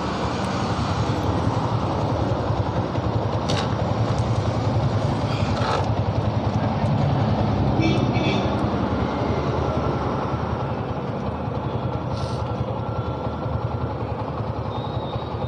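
Steady roadside traffic noise, with vehicle engines running and passing.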